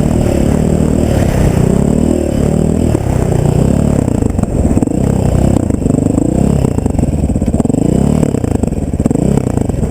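Off-road vehicle engine running under load, its pitch rising and falling constantly with throttle changes.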